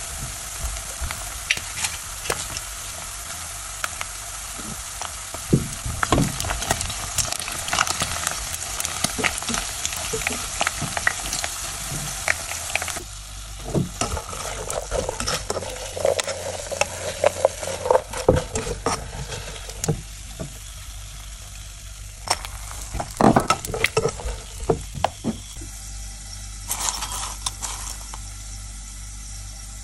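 Chicken skin frying in oil in a saucepan, a steady sizzle, with tongs clicking and scraping against the pan as the pieces are turned. The sizzle thins out about halfway through.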